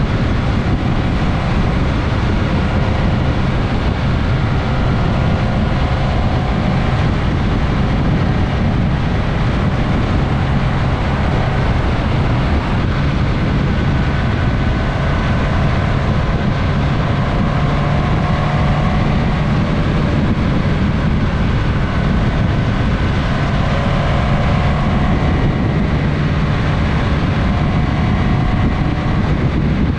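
Onboard sound of a Suzuki GSX-S1000S Katana's inline-four engine running on the move, with the engine note drifting slightly up and down in pitch under a steady wash of wind and road noise.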